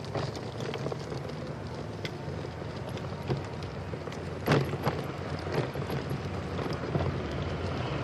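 Steady rumble of a bicycle rolling along a trail, with a few sharp knocks and rattles, the loudest about four and a half seconds in.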